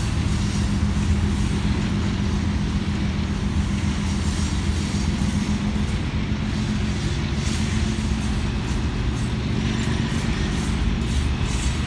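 Freight cars of a manifest train rolling past: a steady rumble of steel wheels on rail with a low hum underneath.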